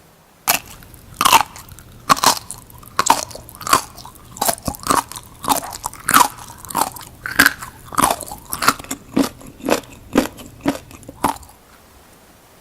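Close-up crunchy bites and chewing of raw seaweed, a quick run of sharp crisp crunches, about two a second, starting about half a second in and stopping shortly before the end.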